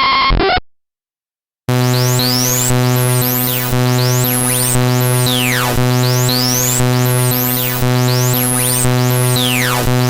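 Loud harsh synthesized electronic sound from a prank malware program's audio payload. A buzzy, repeating pattern cuts off under a second in. After about a second of silence, a new droning chord starts, with high pitch glides sweeping down and up again and again.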